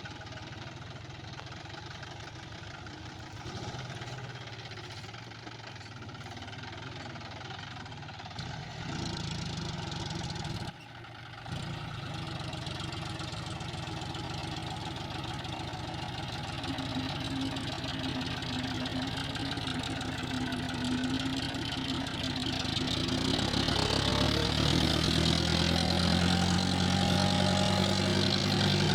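John Deere tractor's diesel engine running steadily, with a brief drop about a third of the way in. In the last few seconds it climbs in pitch and grows louder as it revs up.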